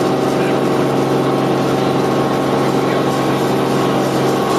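Helicopter in flight, heard from on board: a loud, steady drone of engine and rotor with a constant low hum.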